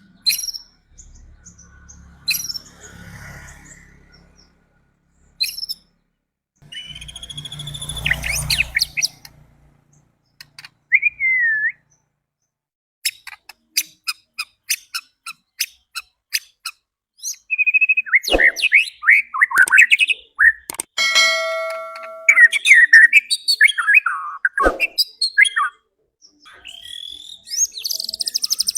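White-rumped shama (murai batu) singing in separate bursts of whistled phrases that sweep up and down in pitch, with pauses between them. About halfway through comes a run of quick even ticks, and the song grows busier and nearly continuous in the second half.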